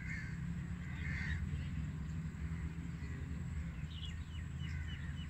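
Birds calling: two harsh calls in the first second and a half, then a run of short chirps about four seconds in, over a steady low rumble.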